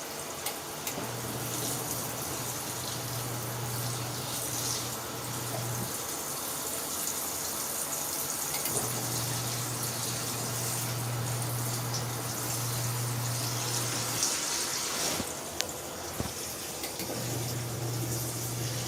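Water pouring into the wash tub of a ZENY mini twin-tub washing machine while its wash motor hums in runs of about five seconds, stopping for two to three seconds between runs as the agitator cycles.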